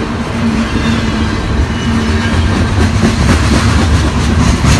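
Freight train of coal cars rolling past close by: a steady low rumble of wheels on rail with a steady hum, and a few sharp clicks of wheels over rail joints near the end.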